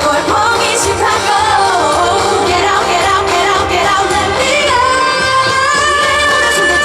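Korean pop song performed live, a female singer's voice carrying the melody over the accompaniment, with a long held note from about five seconds in.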